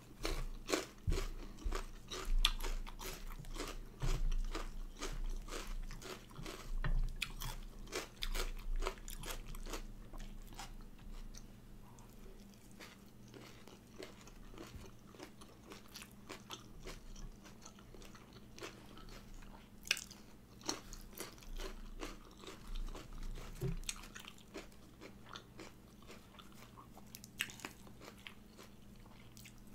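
Close-up mouth sounds of a person biting and chewing crisp raw vegetables such as bitter melon and lettuce, with frequent sharp crunches that come thickest in the first third and thin out later. A faint steady low hum sits underneath.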